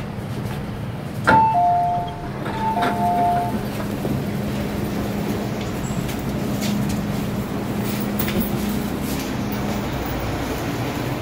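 MTR M-Train door chime: a click, then a two-note ding-dong, high then low, played twice. A steady low hum from the standing train runs underneath.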